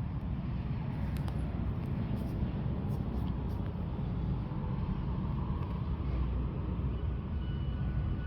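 Distant aircraft engines, a steady low rumble that swells slightly about five seconds in.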